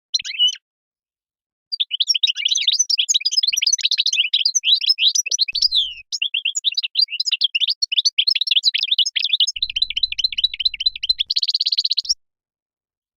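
European goldfinch singing. A short call comes first, then a long run of fast, liquid twittering with a brief pause about halfway through, and it ends in a dense trill.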